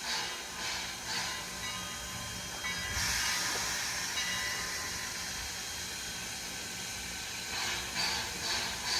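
Steam locomotive working, its exhaust chuffing about twice a second, with a loud steady hiss of steam coming in about three seconds in. The chuffing comes back near the end.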